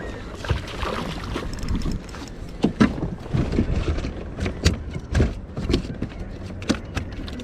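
Irregular sharp knocks and clicks on a kayak, over a steady bed of water and wind noise, thickening from a couple of seconds in.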